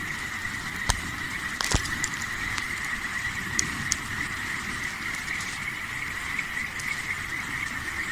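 Wood campfire crackling, with a few sharp pops scattered through, over a steady high-pitched chorus of night creatures.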